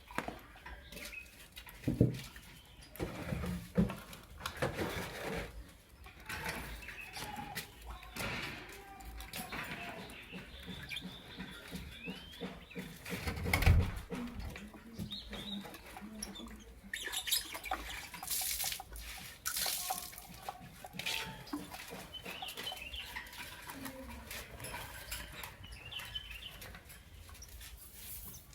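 Lovebirds chirping in short calls amid rustling, scratching and wing flutters, with two louder thumps, one about two seconds in and one near the middle.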